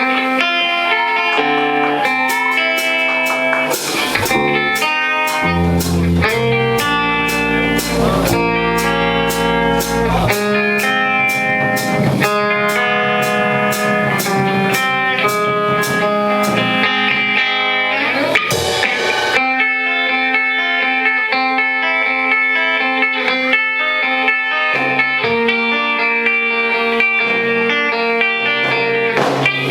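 A live band playing in a garage: electric guitar carries the notes over drum hits, with bass strongest for a few seconds near the start.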